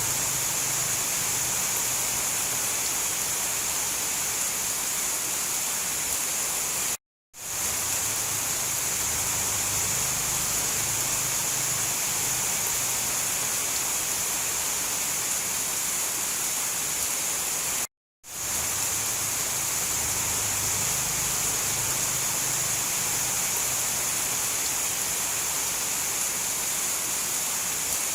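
Steady rain falling, an even hiss strongest in the treble. It cuts out to silence for a split second twice, about 7 and 18 seconds in, fading straight back up each time.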